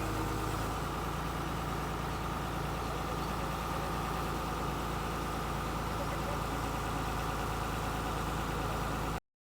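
Tata Hitachi 200-class excavator's diesel engine running steadily. The sound cuts off abruptly near the end.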